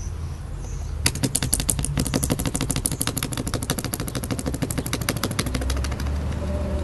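Excess cured repair resin being scraped off windshield glass with a blade: a rapid chattering run of clicks, about a dozen a second, starting about a second in and lasting about four seconds.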